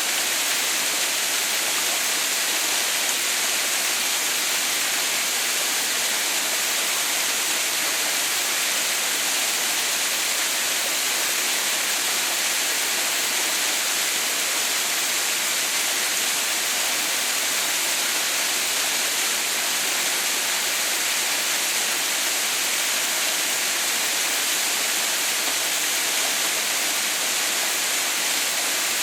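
Waterfall running steadily: a constant, even rush of falling water, bright and hissy, with no breaks or changes.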